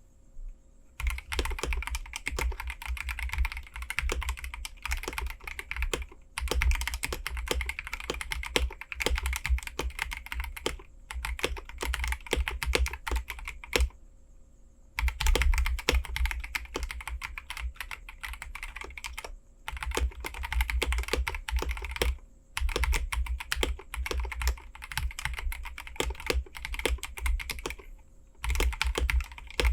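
Fast typing on a KBD67 Lite mechanical keyboard with stock, unlubed Glorious Lynx linear switches and GPBT keycaps: runs of rapid keystrokes with short pauses, starting about a second in.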